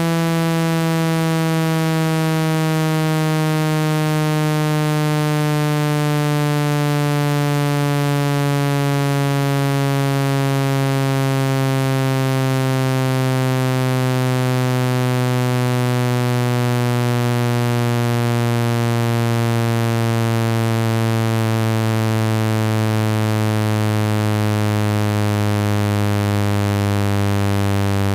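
Synthetic low buzzing tone with many overtones, sliding slowly and steadily down in pitch. It is a speaker water-ejection sound, played at full volume to vibrate trapped water out of a phone's speaker.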